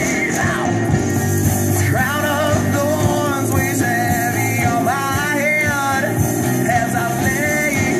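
Live rock band playing, with a singer's voice holding wavering notes with vibrato over guitar and a steady rhythm section.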